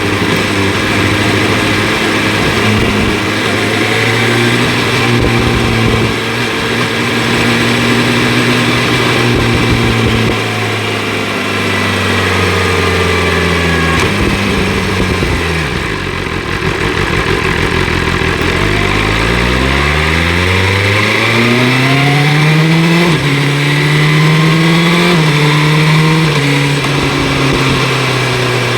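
2025 BMW S1000 RR's inline-four engine through an Akrapovic exhaust, riding along. The engine holds a steady note at first and drops in pitch as the bike slows around the middle. It then revs up hard, with several quick upshifts in the last few seconds.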